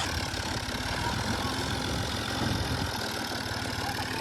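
Diesel engine of an old combine harvester running steadily, with a fast, even low chugging.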